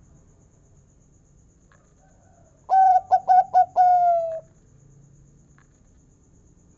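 Zebra dove (perkutut) singing one song phrase about a third of the way in: several quick stuttering coos run into a long final note that falls slightly in pitch, lasting about a second and a half in all.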